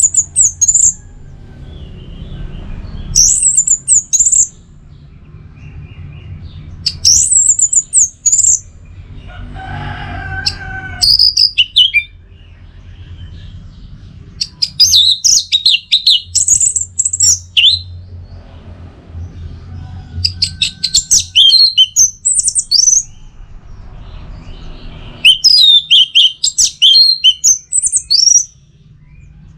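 Orange-headed thrush singing: short high whistled phrases every few seconds, then longer, busier runs of song in the second half. One lower call sounds about ten seconds in, over a steady low hum.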